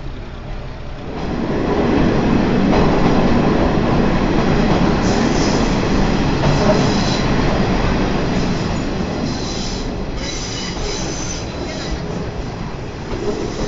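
Watarase Keikoku Railway trolley train running on the track, heard from aboard. The wheels rumble, swelling about a second in, and the flanges squeal high-pitched twice on curves.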